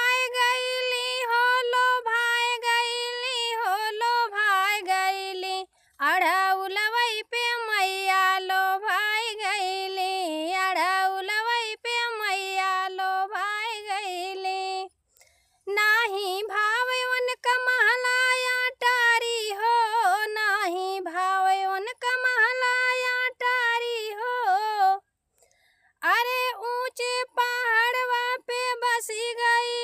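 A woman singing a devi pachra, a Bhojpuri devotional folk song to the goddess, solo and without accompaniment, in a high voice with ornamented phrases and three short breaks for breath.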